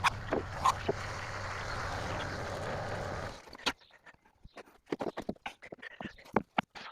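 An engine running steadily, with a few sharp knocks, cuts off abruptly about three and a half seconds in. Scattered light knocks and clacks follow, typical of sawn oak boards being handled and stacked.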